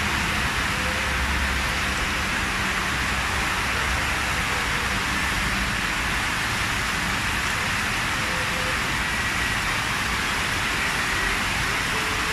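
Heavy rain falling steadily on a wet road: an even, unbroken hiss.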